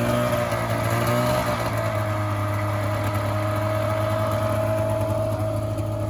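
2001 Polaris 500 liquid-cooled two-stroke twin snowmobile engine running just after being started, its speed wavering slightly for the first second or so, then settling into a steady idle.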